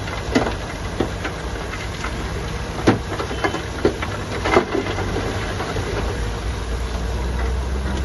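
Heavy diesel construction machinery running steadily, with several sharp clanks in the first half; the low engine drone grows stronger in the second half.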